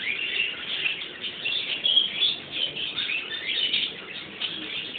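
Small birds chirping busily: a dense, continuous run of short, high chirps.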